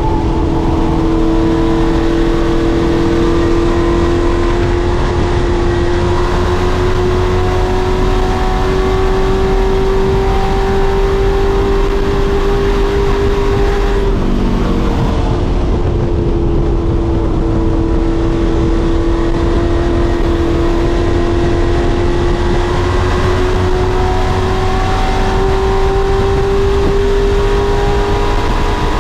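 Race truck engine running hard at speed on an oval, its pitch climbing slowly, then easing off briefly about halfway through and building again.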